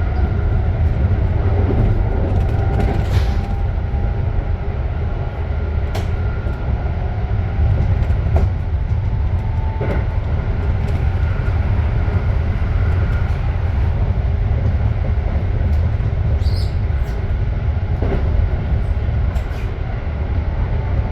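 Japanese commuter train running, heard from inside the carriage: a steady low rumble with scattered clicks from the wheels and track and a brief high squeal about 16 seconds in.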